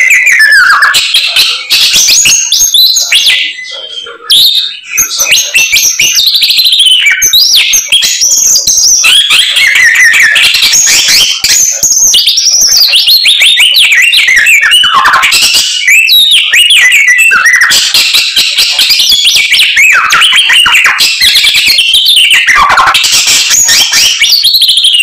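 Samyong songbird singing loudly and without pause: a fast, varied stream of whistled, gliding and trilled phrases, with imitations of other birds' songs mixed in.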